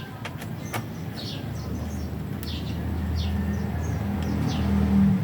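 A low, engine-like rumble that swells over a few seconds and stops abruptly near the end, with small birds chirping repeatedly over it and a couple of light clicks early on.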